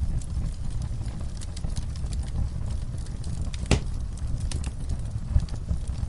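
Wood fire burning in a fireplace: a steady low rumble with irregular small crackles and one sharper pop a little past halfway.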